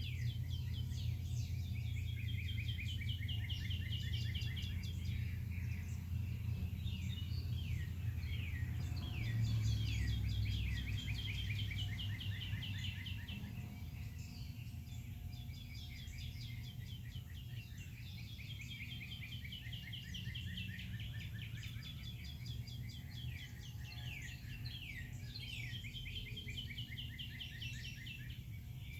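Several wild songbirds singing and chirping at once, many overlapping songs of quick repeated notes and short falling trills, over a steady low rumble that drops off about a third of the way through.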